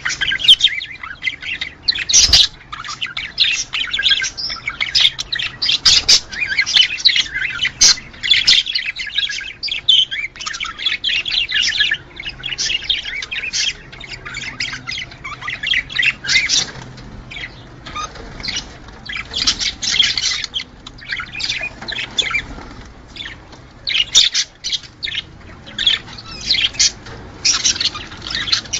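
Budgerigars chattering, a dense run of quick chirps, warbles and squawks, thinning briefly about three quarters of the way through.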